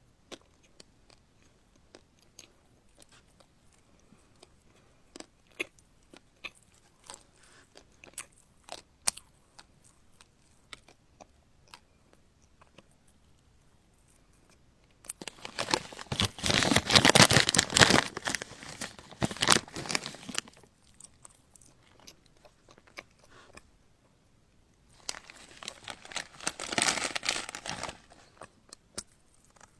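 Close-miked eating: soft mouth clicks and chewing, then two loud stretches of crunching, the first about halfway through and lasting some five seconds, the second shorter, near the end.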